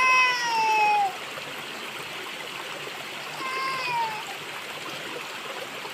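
Steady rush of flowing water. Two high, falling calls cut across it, one right at the start lasting about a second and a fainter one about three and a half seconds in.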